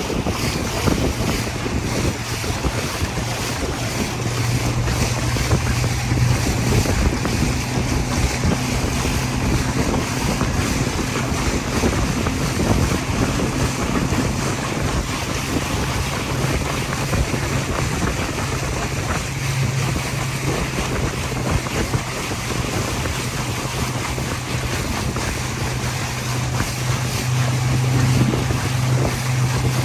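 Motorboat running at speed across a lake: a steady low engine hum under heavy wind buffeting on the microphone and rushing water.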